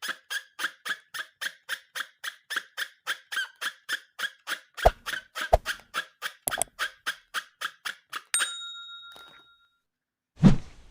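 Rapid, evenly spaced squeaks, about four a second, pitched and rubbery. About eight seconds in they stop and a short ringing chime fades out. A single thump comes near the end.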